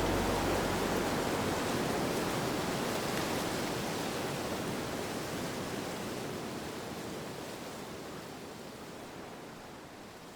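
A steady rushing hiss with no distinct events that slowly fades out.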